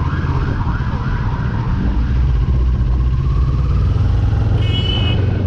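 Motorcycle riding noise, a steady low engine and wind rumble, with a siren yelping up and down in the first second or so. A short high-pitched tone sounds briefly near the end.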